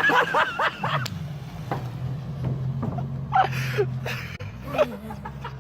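A boat's motor running steadily at a low pitch, with people shouting and laughing over it near the start and again in short calls later on.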